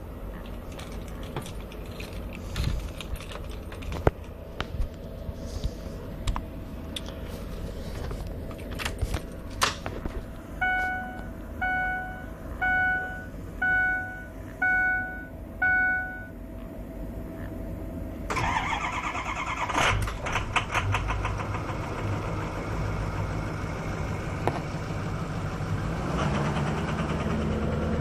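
Six short electronic beeps, evenly spaced, over a faint steady tone and a few clicks. Then a Ford 6.0L Powerstroke V8 diesel is cranked by its starter for about eight seconds before it catches and runs at idle: a hard start.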